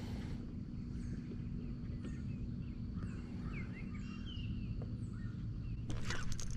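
Birds chirping and whistling in short calls over a steady low hum.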